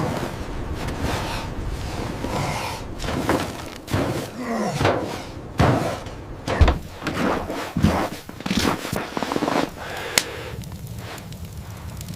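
An irregular run of knocks and heavy thuds, coming thickest in the middle stretch.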